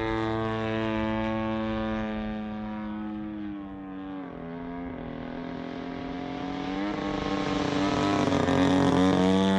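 EME60 60cc single-cylinder two-stroke gas engine, spinning a three-blade 22x10 propeller, running at part throttle in flight. The note dips in pitch about four seconds in, then climbs and grows louder near the end as the plane comes closer.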